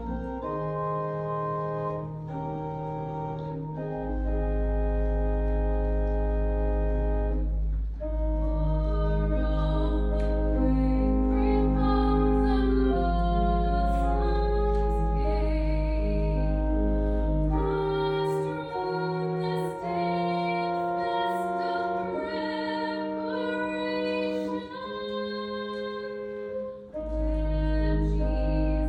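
Church organ playing sustained chords over a deep pedal bass note, with singing over it. The bass note drops out for several seconds in the second half, then returns near the end.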